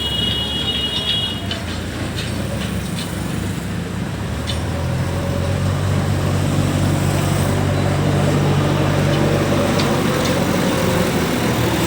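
A vehicle engine running steadily, a low hum that grows louder about halfway through and then holds, with a few faint clicks near the start.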